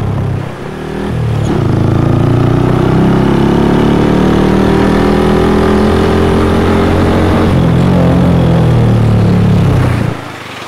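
Motorcycle engine running under way, heard close from the rider's own bike: it dips briefly about half a second in, then pulls strongly and fairly steadily, and falls away sharply near the end.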